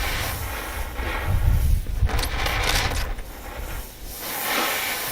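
Oxy-acetylene torch with a rosebud heating tip burning with a low rumble and hiss, with a short stretch of sharp crackling about two seconds in.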